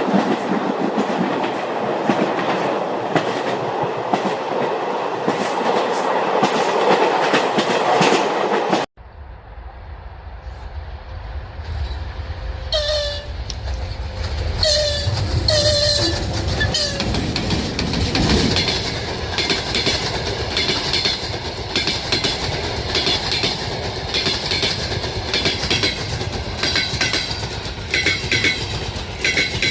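Passenger trains on the railway. One train goes by loudly with a dense rumble that cuts off sharply about nine seconds in. Then another train approaches with a low rumble and a few short high tones, followed by a steady run of wheel clatter over the rail joints.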